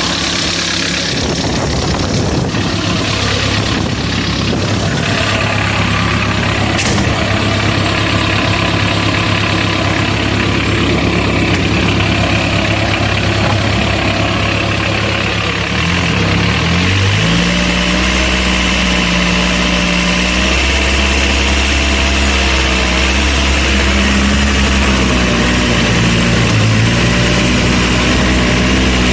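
Homemade tractor's engine running steadily; about halfway through its pitch drops and settles into a lower, slightly louder note.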